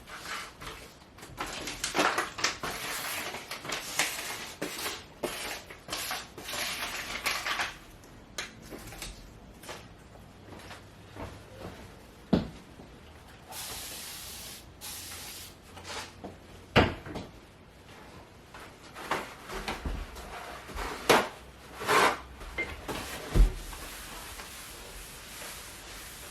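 Household handling noise: several seconds of rustling, then a short hiss and a string of sharp knocks and clicks, like cupboards or drawers being opened and shut and things being set down.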